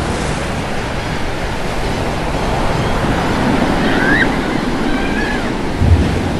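Surf breaking on a beach, a steady rush of waves, with two short faint seagull calls near the middle.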